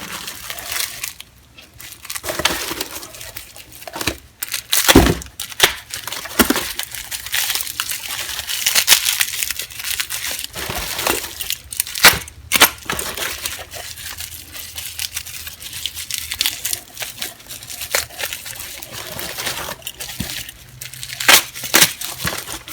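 Paper or plastic packing material crinkling and rustling as tools are unwrapped by hand, with a few sharp knocks of metal tools being handled.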